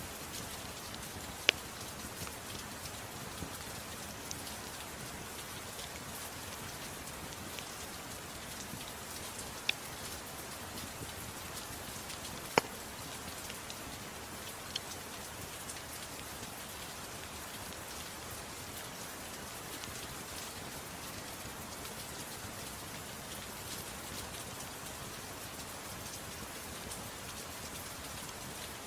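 Soft, steady rain mixed with a wood fire. A few sharp crackles stand out from the even hiss, the loudest about a second and a half in and about twelve seconds in.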